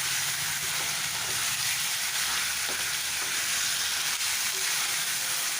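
Chicken pieces sizzling steadily in hot mustard oil in a pan, with shallots and ginger garlic paste.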